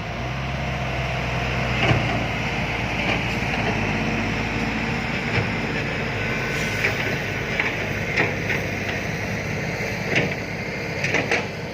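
Heavy diesel engine running steadily with a low hum, with a few short knocks scattered through it.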